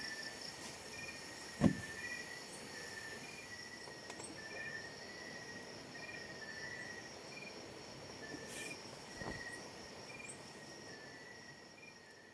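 Insects chirping in steady high-pitched trills, with a short chirp repeating about once a second. A single low thump comes about a second and a half in, and a fainter one later.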